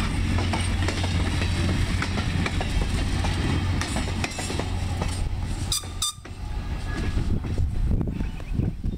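Passenger train cars and a caboose rolling past at low speed, with a steady low rumble and wheels clicking over the rail joints. The rumble fades about halfway through as the caboose moves away, leaving gusty wind on the microphone.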